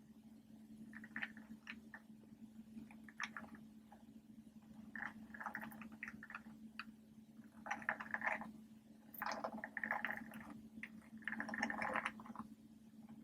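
Animal-shaped popper toys being pressed, giving clusters of quick soft pops and clicks in bursts of about a second each, over a faint steady low hum.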